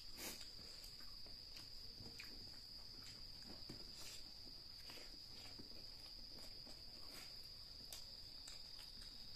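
Faint mouth sounds of chewing spicy chicken feet, with scattered soft clicks every second or so, over a steady high-pitched cricket trill.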